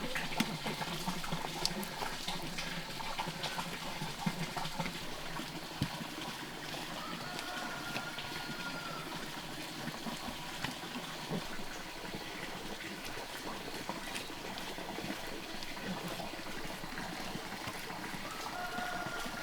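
Water trickling and splashing, with scattered small knocks, and twice a short steady-pitched animal call.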